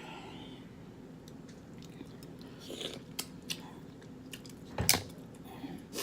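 Close-mic eating sounds from a seafood boil: wet chewing and smacking with scattered clicks, and one louder sharp snap about five seconds in.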